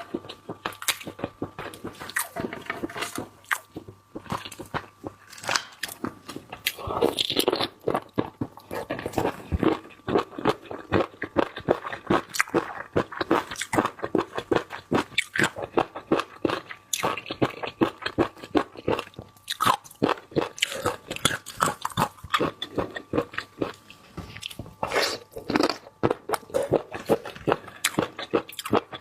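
Close-miked mukbang eating: seafood being bitten, crunched and chewed, with dense, rapid wet crackles and clicks.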